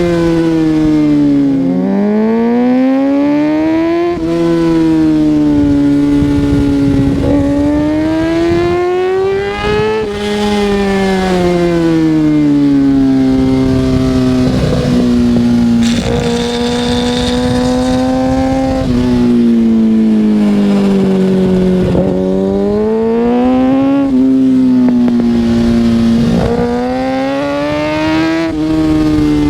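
Kawasaki ZX-6R 636 sportbike's inline-four engine under way, its revs repeatedly climbing and falling as it accelerates, shifts and backs off, with several quick drops in pitch.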